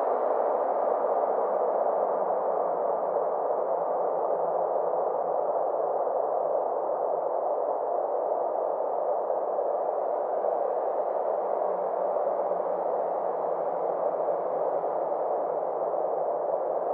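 Synthesized space ambience: a steady, muffled whooshing drone with a faint low hum beneath it, its brightness slowly dipping and coming back.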